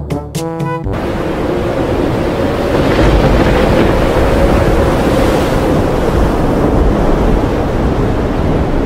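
Loud rushing wind sound effect, a gale standing for Jupiter's high atmospheric winds; it builds over the first few seconds and then holds steady. A brassy music cue stops about a second in.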